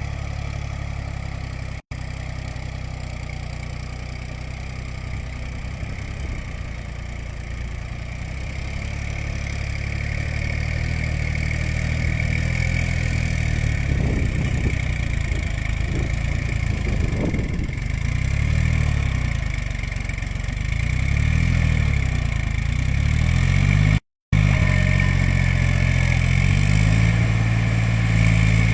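New Holland 47 hp tractor's diesel engine running under load, slowly growing louder, its pitch rising and falling as the throttle changes in the second half. The sound cuts out completely for an instant twice.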